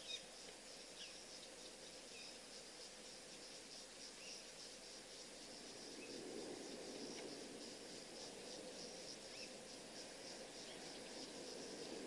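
Faint, steady insect chorus chirping in a fast, even pulse, with a few short, faint bird chirps scattered through it.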